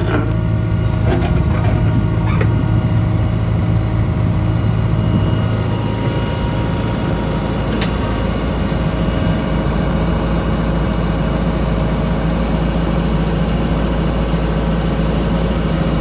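Heavy diesel engine running steadily, a low even drone, from the backhoe loader or tipper trucks working mud.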